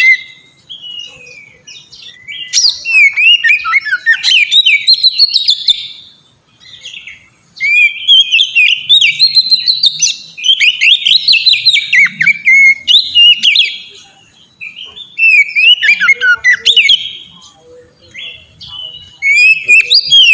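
Oriental magpie-robin (kacer) singing: rapid strings of varied, sharp whistled notes in bursts several seconds long, with short pauses between.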